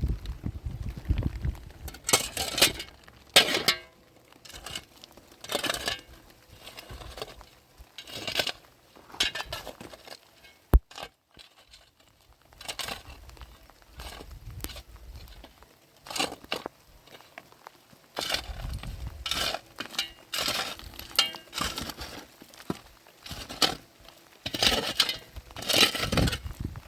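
Irregular clinks, knocks and rustles of objects being handled, with one sharp click near the middle.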